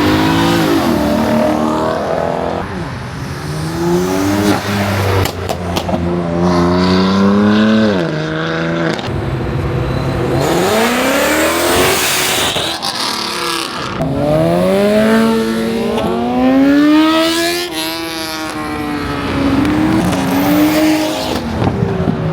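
A car engine revving hard over and over, its pitch climbing and falling back every few seconds.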